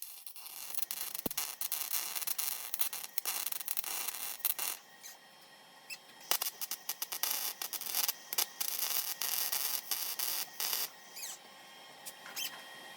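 Welding arc crackling on car-body sheet metal, in short runs with brief pauses between, as in stitch or tack welding a rust-repair patch.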